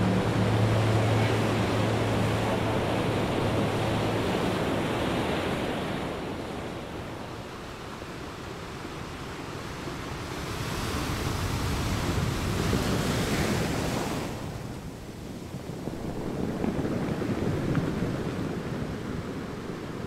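Sea surf: waves washing in and drawing back, swelling and ebbing slowly, louder twice in the second half. A low steady engine hum fades out in the first few seconds.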